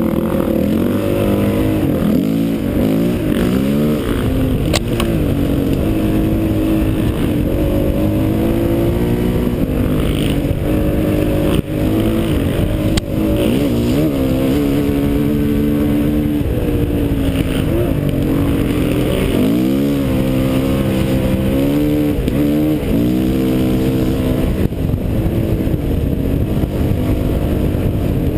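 Honda CRF450X single-cylinder four-stroke dirt bike engine running hard on a forest trail, revs rising and falling constantly as the throttle is worked, with a couple of brief drops in power near the middle.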